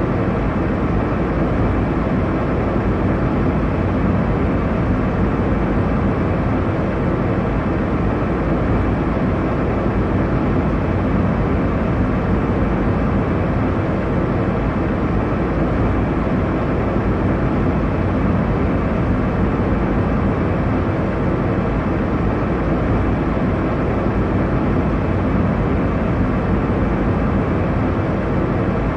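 Steady airliner cabin noise in flight: an even, unchanging rush of engine and airflow noise, strongest in the low end.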